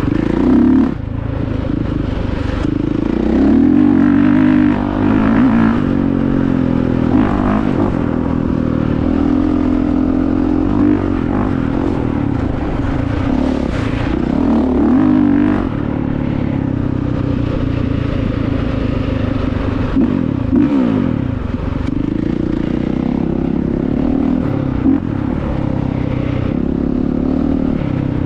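Honda CRF450R dirt bike's single-cylinder four-stroke engine being ridden hard off-road, its revs repeatedly rising and falling as the throttle opens and closes.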